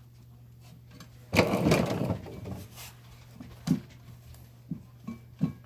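Metal parts and tools being handled on a workbench: a burst of clattering and scraping about a second and a half in, then a few short knocks, over a low steady hum.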